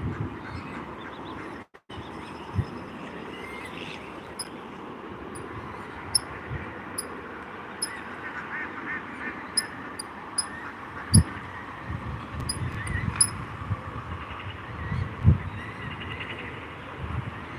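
Waterfowl calling: Canada geese honking and ducks quacking, with short high chirps from about four seconds in and a few low thumps on the microphone.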